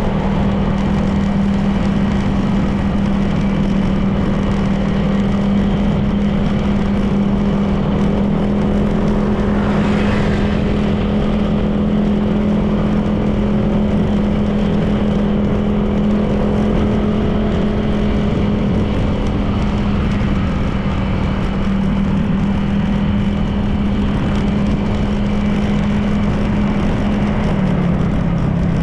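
Honda PCX 160 scooter's single-cylinder engine running at a steady cruising speed, with road and wind noise. A brief hiss swells about ten seconds in, and the engine note drops slightly near the end as the throttle eases.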